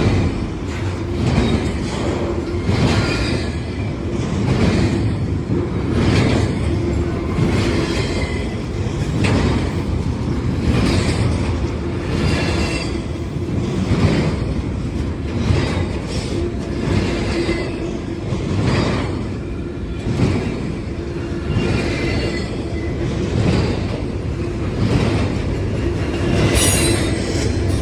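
Norfolk Southern freight train's cars rolling past, the wheels clacking over rail joints in a steady, repeating rhythm, with high wheel squeal coming and going.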